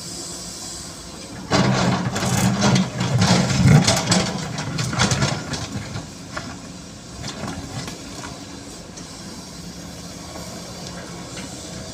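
Sany SY215C hydraulic excavator's diesel engine running, rising sharply about a second and a half in as it takes load, with a few seconds of clatter and scraping, typical of a bucket digging into soil and stones, before it settles back to a steady run.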